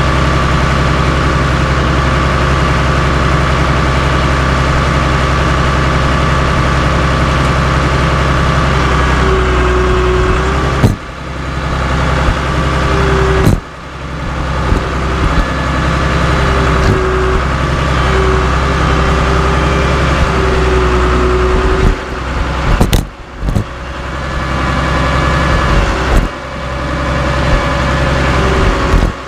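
Cat D3C LGP bulldozer's diesel engine running steadily. From about a third of the way in, a whine comes and goes, and several sudden loud sharp sounds are each followed by a brief drop in level.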